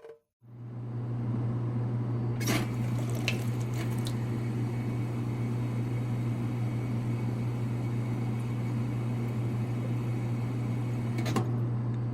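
A steady low machine hum that switches on about half a second in, with a few sharp clicks shortly after it starts and one more near the end.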